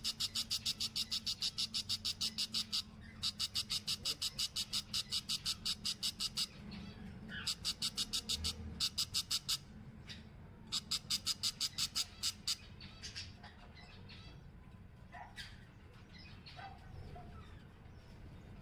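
Baby bird calling: trains of rapid, evenly repeated raspy peeps, about six a second, in four bursts of two to three seconds each, giving way near the end to scattered single chirps.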